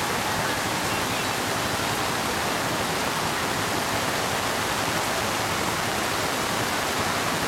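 Floodwater rushing steadily in a flash flood, an even continuous wash of water noise.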